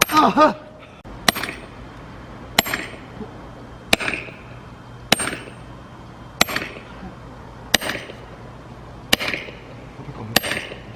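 Firewood being split with eight hard blows at an even pace, about one every 1.3 seconds, each with a short metallic ring, like a sledgehammer striking a steel splitting wedge in a log.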